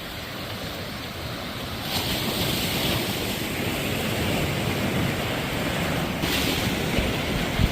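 Sea waves washing and breaking, swelling about two seconds in and again near six seconds, with wind buffeting the microphone.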